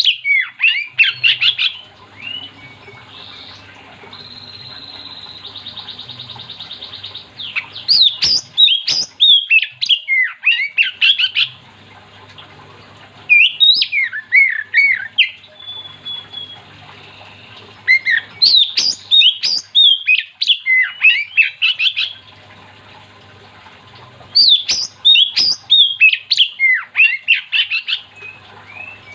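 Oriental magpie-robin singing loud bouts of rapid, varied whistled and scratchy notes, each burst a few seconds long, five times with short pauses between. A faint steady buzz sounds between the first two bouts.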